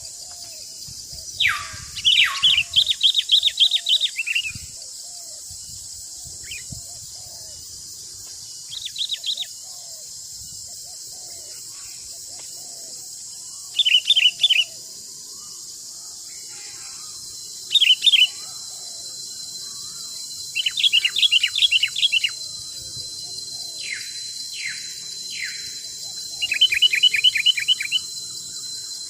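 Songbirds singing in short phrases of quick repeated notes, some falling in pitch, every few seconds. Under them runs a steady high drone of insects.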